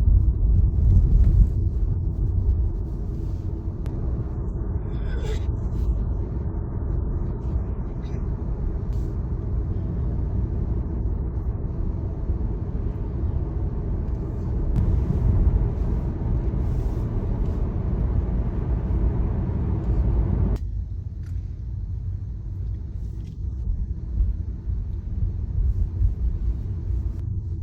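Tesla electric car driving at highway speed: steady low tyre and road rumble with no engine note. About twenty seconds in, the higher hiss cuts off suddenly and only the low rumble remains.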